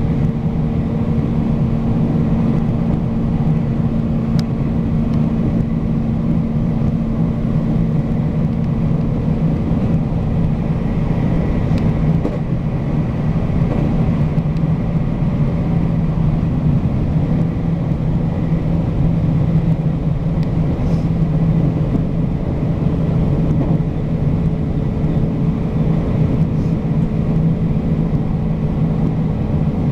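Local passenger train running steadily along the line, heard from inside the carriage: a continuous rumble of wheels on rail with a constant low hum.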